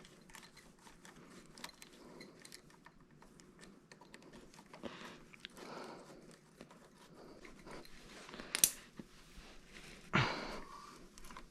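Light clicks and taps of hand tools and small metal parts as bolts are fitted on the Honda SL70 engine's timing side, with a sharp click a little before the end and a louder clunk about a second later.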